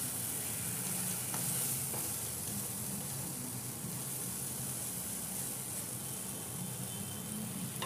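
Tomato, pea and spice masala sizzling in a nonstick kadai while a wooden spatula stirs it. A steady frying hiss with a few light spatula clicks. The masala is being roasted (bhuna) in a little water and oil.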